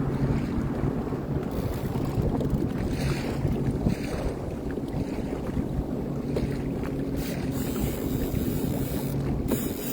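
Sea-Doo Fish Pro personal watercraft's engine running at a steady drone, with wind buffeting the microphone.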